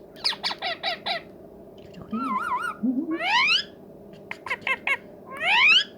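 Indian ringneck parakeet calling: a quick run of short chirps, a warbling whistle, and two rising whistled calls, with another cluster of chirps between them.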